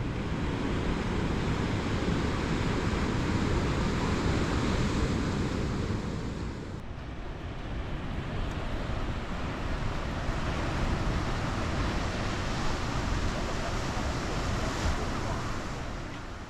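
Sea waves washing onto the shore: a steady rush of surf that swells and eases, dipping about seven seconds in before building again.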